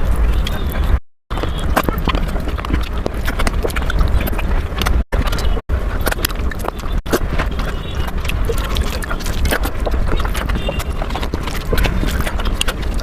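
Close-miked eating sounds: chewing and mouth smacking, heard as a rapid, dense run of wet clicks and smacks over a low rumble. The sound drops out completely for a moment a few times, the longest gap about a second in.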